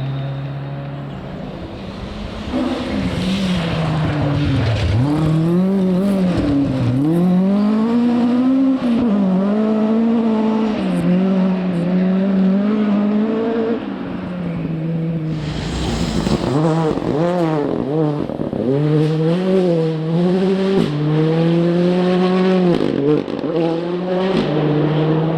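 Rally car engine revving hard along a stage, its pitch climbing and dropping again and again with gear changes and lifts off the throttle. A short burst of noise comes about fifteen seconds in, and there may be some tyre squeal.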